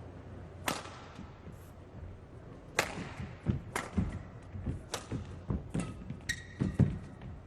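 Badminton rally: rackets strike the shuttlecock in sharp cracks about once a second, with players' footsteps thudding on the court between hits and a short shoe squeak near the end.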